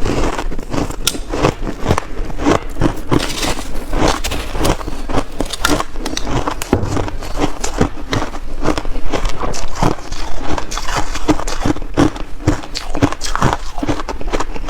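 Close-miked crunching and chewing of shaved ice in big bites, a dense, irregular run of loud crackly crunches.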